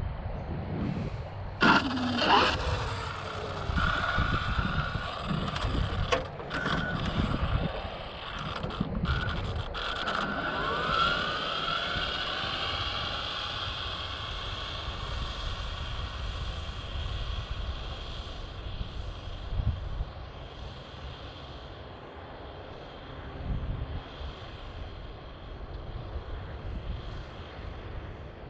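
A radio-controlled truck's brushless electric motor whining, with sharp rising and falling pitch sweeps about two seconds in and again around ten seconds in as it speeds up and slows. The whine fades away after that, under steady wind noise on the microphone.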